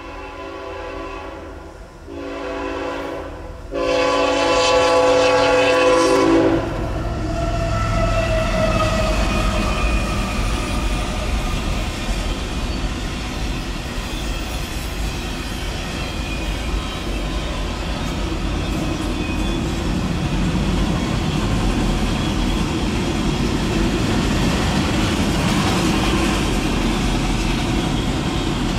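Freight train horn blowing for a grade crossing: three blasts in the first six and a half seconds, the last held about three seconds and loudest. Then the train passes close by, a steady rumble of wheels on rail with some clickety-clack as the autorack cars roll through.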